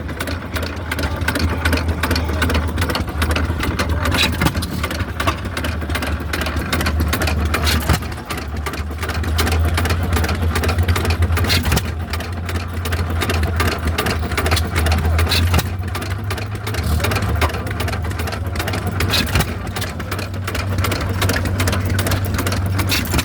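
Hit-and-miss stationary engines running, a steady low mechanical clatter with dense rapid clicking that swells and eases.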